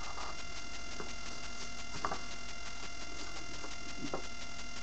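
Steady electrical hum with a high, many-toned whine, with a few faint soft clicks or rustles about one, two and four seconds in.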